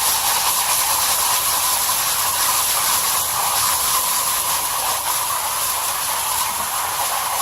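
Garden hose spraying water into an air-conditioning coil to flush out cottonwood, a steady, unbroken hiss of spray.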